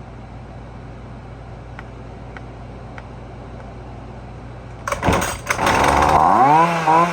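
A steady low hum, then about five seconds in the Husqvarna 128LD string trimmer's small two-stroke engine comes in loud and revs up and down several times, its pitch rising and falling, while its carburetor's high-speed mixture screw is being reset.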